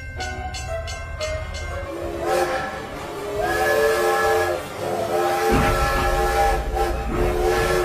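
Music plays for about two seconds, then a multi-tone air horn sounds four long blasts, each about a second long. A low engine rumble joins underneath about halfway through.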